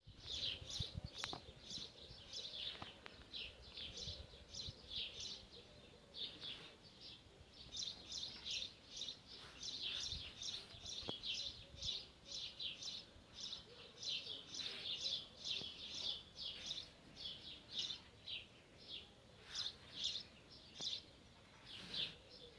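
Small birds chirping rapidly, short high-pitched chirps several a second with brief gaps.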